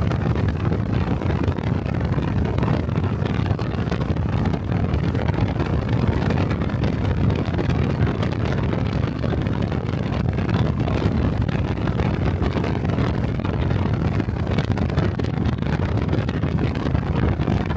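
Honda Cub 125 cc single-cylinder engine running steadily while riding, with wind rushing over the microphone.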